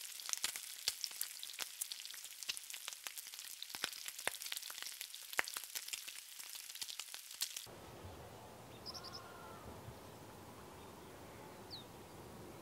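Spiced mutton chops sizzling and crackling on a hot cast-iron grill pan, with many sharp pops. About two thirds of the way through, the sizzling cuts off abruptly, leaving a quieter steady background hum with a few faint high chirps.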